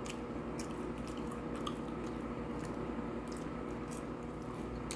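Close-miked mouth sounds of a person chewing a chicken McNugget: scattered small clicks and smacks, a dozen or so spread irregularly, over a steady low hum.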